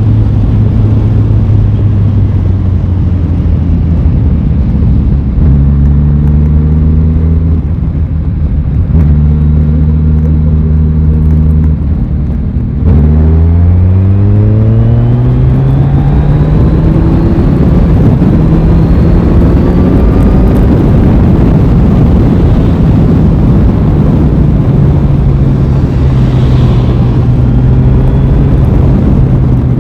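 Aprilia Tuono 660's parallel-twin engine on the move, over a rushing noise. It holds steady revs at first, then about 13 s in it is opened up and the revs climb for several seconds before levelling off.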